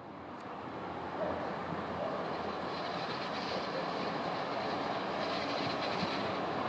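Historic passenger train hauled by an FS E636 electric locomotive running along the station tracks: a steady rumble of wheels on rails that fades in over the first second and then holds level.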